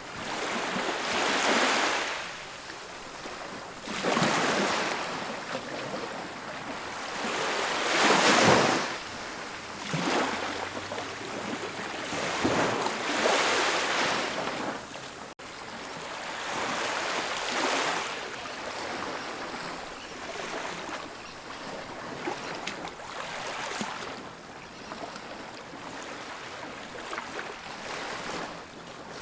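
Ocean surf breaking and washing up a beach, rising in a surge of hiss every few seconds and falling back between. The largest wave breaks about eight seconds in.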